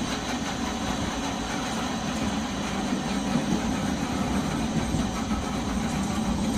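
Nagasaki Electric Tramway 370-series tram in service: a steady low rumble and hum with faint, steady high-pitched whines over it.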